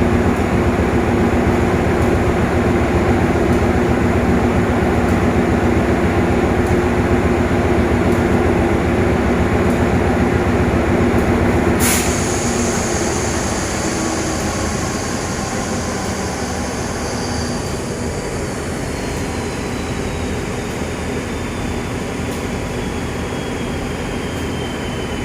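Diesel locomotive engine running steadily at a standstill. About halfway through there is a sharp click, and then the engine note drops and quietens while a high whine slowly falls in pitch.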